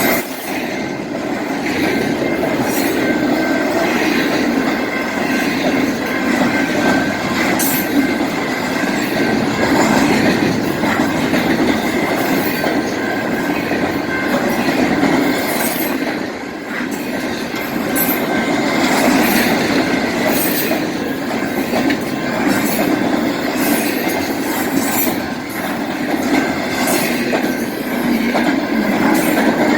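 BNSF freight train cars rolling past at speed: a steady, loud rumble of wheels on rail with a faint, steady high wheel squeal and scattered clicks as the wheels cross rail joints.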